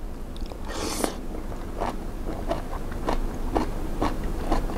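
Close-up chewing of a mouthful of wakame seaweed salad: a brief noisy burst about a second in as it goes into the mouth, then crunchy chewing at about two chews a second.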